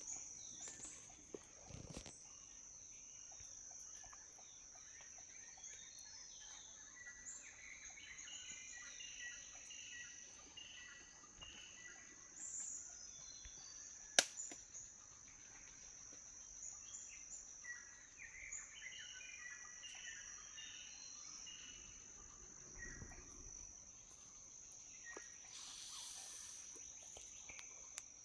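Steady high-pitched insect drone, like crickets or cicadas, with runs of short bird-like chirps twice and a single sharp click about halfway through.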